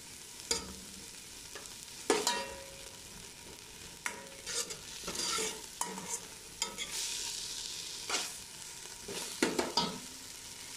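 Chopped garlic and coriander sizzling as they fry in oil, stirred with a metal spoon that scrapes and clicks against the side of an enamel pot every second or two. The sizzle swells for a few seconds midway.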